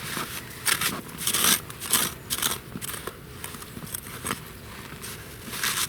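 Boots crunching on snow over river ice in irregular steps, with scraping crunches in between.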